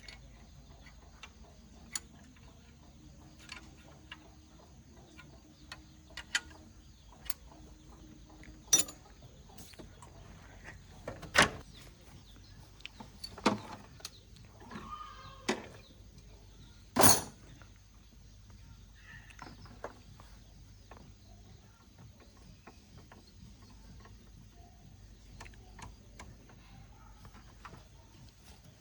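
Scattered knocks and clicks at irregular intervals, with a handful of louder knocks in the middle, over a faint steady high hum.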